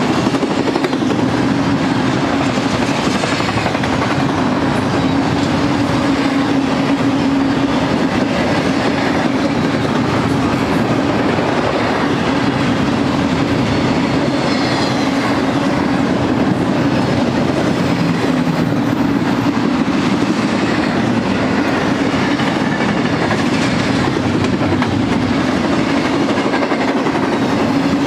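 BNSF double-stack intermodal train's loaded container well cars rolling past close by: steady noise of steel wheels on rail, with a constant low tone under it.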